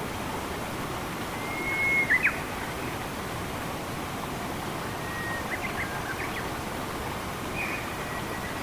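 Steady rush of flowing water, with a bird calling over it: a held whistled note ending in short sharp notes about two seconds in, which is the loudest moment, then similar calls again around five to six seconds and near the end.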